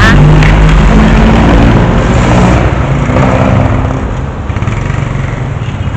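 A motor vehicle's engine running up close under a broad rush of road or wind noise, easing off a little about four seconds in.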